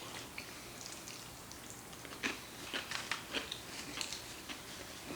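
Close-up chewing and mouth sounds from people eating black bean noodles, a run of soft irregular smacks and clicks that gets busier about two seconds in.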